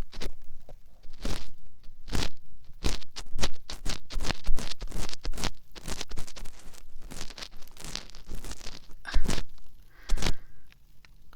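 Ear cleaning on a binaural dummy-head microphone: close, irregular scratching and scraping strokes in the ear canal, several a second, thinning out near the end.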